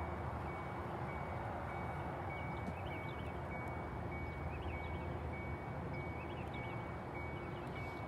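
Steady low rumble of a car heard from inside the cabin, with a faint, thin high tone that keeps breaking off briefly and a few faint chirps in the middle.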